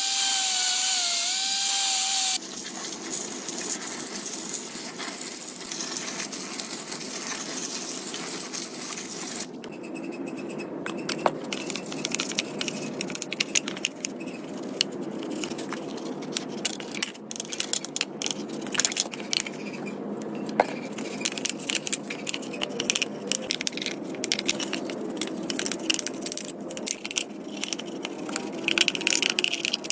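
A small power tool whines for about two seconds and stops abruptly, followed by scraping, clinking and rattling of metal parts being worked and handled by hand.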